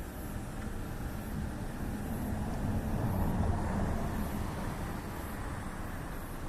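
Low rumble of a passing vehicle, swelling to its loudest about halfway through and then fading.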